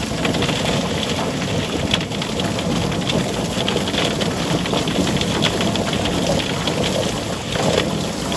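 A chicken plucker running: a steady mechanical noise with a dense, even patter all the way through.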